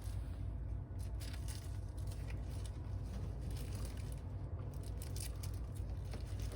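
Steady low room hum with faint scattered ticks and rustling of small parts being handled.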